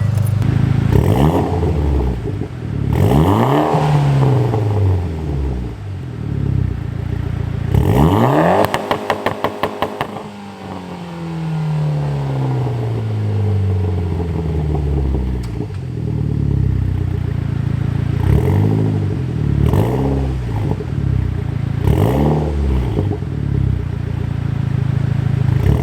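Mitsubishi Lancer Evolution X's turbocharged 2.0 L four-cylinder revved through a catless AMS downpipe, custom 3-inch mid pipe and ETS V3 dual-muffler axle-back: a series of quick throttle blips between idle, and one longer rev about eight seconds in that stutters rapidly at the top, then falls slowly back to idle. The engine is running untuned after the exhaust work.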